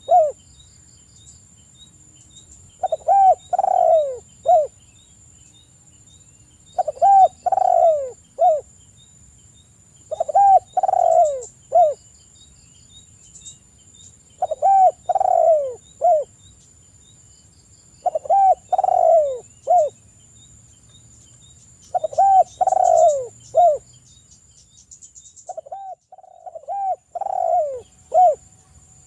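Spotted dove cooing: a short phrase of three or four coos, repeated about every four seconds, seven times, over a steady high insect-like whine.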